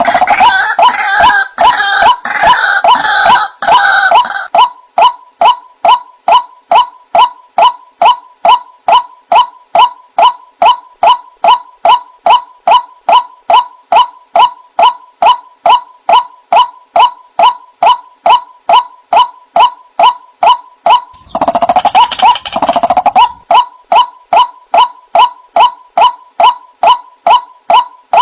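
White-breasted waterhen (ruak-ruak) calling: a steady run of short repeated notes, about two a second, broken by bursts of busier, overlapping calls at the start and again near the end. A recorded lure call for trapping waterhens.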